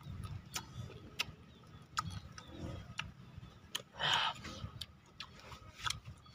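Close mouth sounds of a man eating: scattered small wet clicks of chewing and lip-smacking, with a short breathy puff about four seconds in.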